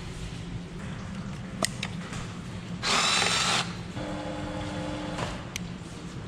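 A handheld power tool runs in a short loud burst about three seconds in, then a steadier, lower whir for about a second, with a few sharp clicks, while bolts are worked loose during engine disassembly.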